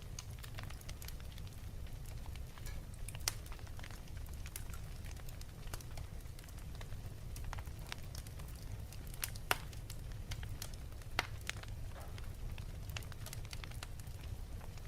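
Wood fire in a fireplace crackling, with irregular sharp pops over a steady low rumble; the loudest pop comes about halfway through.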